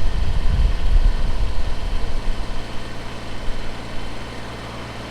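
Kubota BX23s compact tractor's three-cylinder diesel idling, with a heavy uneven rumble for the first half or so that settles into a steady low hum.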